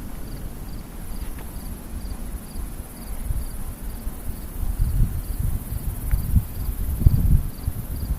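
Crickets chirping at a steady rhythm, about two chirps a second, over gusty wind buffeting the microphone.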